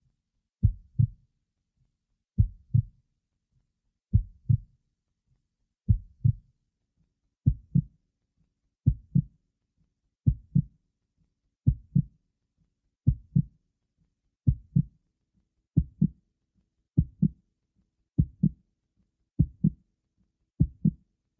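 Heartbeat sound: paired low "lub-dub" thumps repeating in a steady rhythm that gradually quickens, from about one beat every 1.7 seconds to about one every 1.2 seconds.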